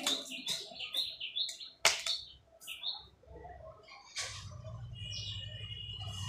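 A small bird chirping, a quick run of short high chirps over the first three seconds, with a few sharp clicks among them. From about four seconds in, a low steady hum.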